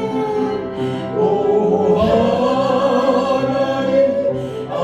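A congregation and worship band singing a Korean gospel hymn, voices holding a long sustained note over accompanying instruments.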